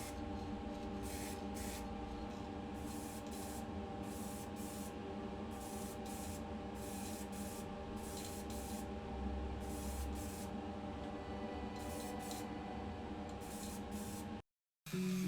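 Paint being sprayed in short, irregular hissing bursts over a steady mechanical hum, while the colour coat goes onto a die-cast model car body. Near the end it cuts out briefly and music starts.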